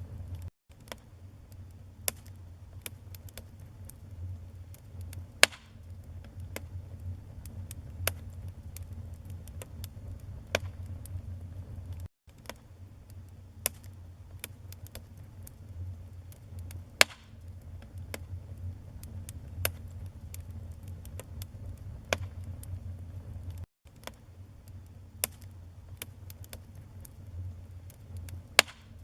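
Wood fire crackling, with irregular sharp pops from the burning logs over a steady low rumble of flames. The sound drops out for an instant three times.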